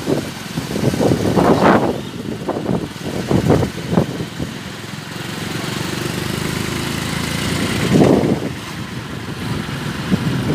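Dust-storm wind gusting against the microphone in irregular surges, over the steady hum of an engine running.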